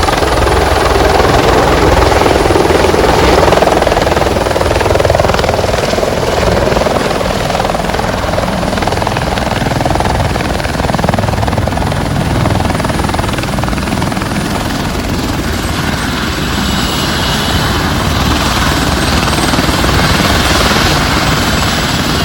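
Helicopter running steadily, its engine and rotor making a loud continuous noise.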